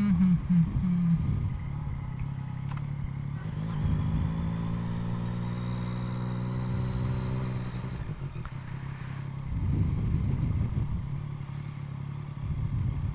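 Yamaha MT-09's inline-three engine through an Akrapovic carbon full exhaust, running at low riding speed. It is loudest in the first second, with a brief swell of throttle. It then holds a steady, even note, and there is a rush of noise about ten seconds in.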